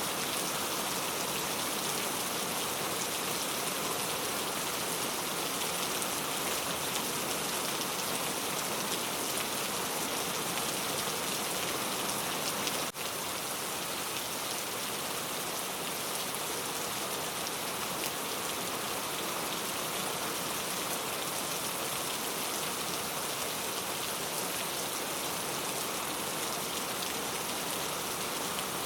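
Steady rain falling, an even, dense hiss of drops, with a faint click and a momentary dip in level about halfway through.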